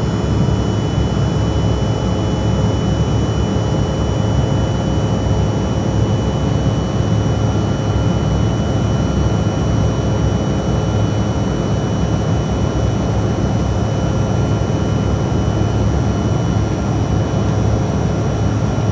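Steady jet airliner engine and airflow noise heard inside the passenger cabin: a constant low hum with several faint, steady high-pitched tones over it, unchanging throughout.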